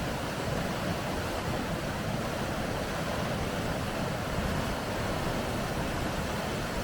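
Steady rushing of water over river rapids, an even noise with no breaks.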